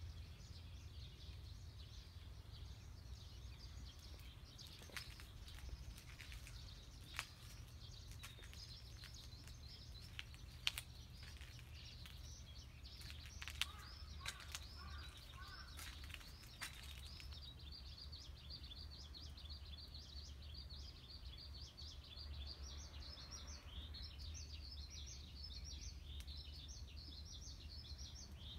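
Birds chirping, in a rapid, dense run of high chirps through the second half, over a steady low rumble, with a few sharp clicks in the first half.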